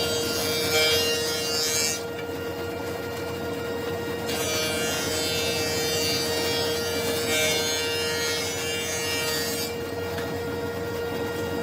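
Wood being rasped or sanded in stretches of a few seconds, over a steady hum.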